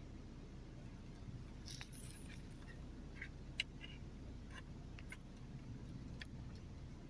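Faint scattered clicks and light taps, with one sharper click about three and a half seconds in, over a low steady hum.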